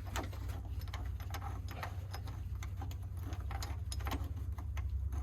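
Irregular light clicks and taps of hands working with metal parts at a tractor's oil pan, over a steady low hum.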